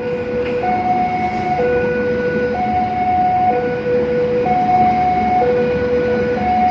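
Railway level-crossing warning alarm sounding two alternating electronic tones, a lower and a higher, each held for about a second in a steady repeating cycle, over the rumble of a passing train.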